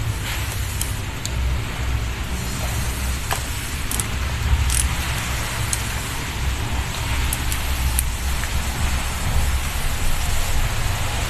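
Workshop noise: a steady low rumble with a few sharp clicks and taps of metal parts being handled.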